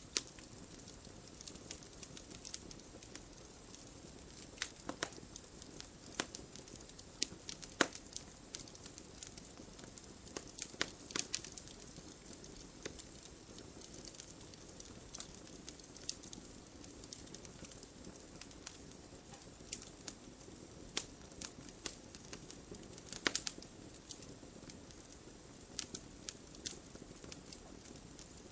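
Wood fire crackling: a steady low hiss with sharp, irregular pops and snaps, a few louder ones standing out.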